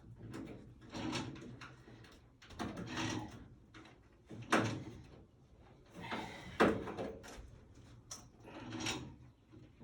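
Clunks and scrapes from hands-on work on a furnace, with two sharp knocks about two seconds apart near the middle.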